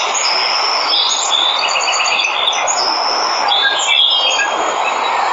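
Many jungle birds chirping and whistling in short repeated notes and trills over the steady rush of a waterfall.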